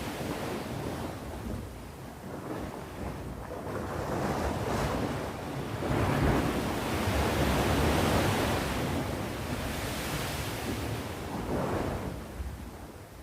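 Sea waves breaking and washing on the shore, a steady surf hiss that swells to a louder wave about halfway through and then ebbs. Some wind rumble on the microphone underneath.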